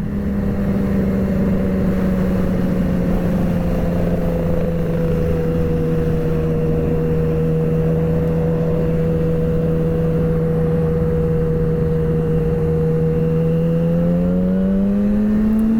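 Sportbike engine running at a steady pitch while riding, easing down slightly in the first few seconds, then rising as the rider accelerates over the last couple of seconds.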